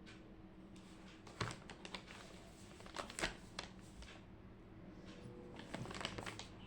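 Faint desk-work sounds of someone studying: scattered light taps and clicks in small clusters over a low steady room hum.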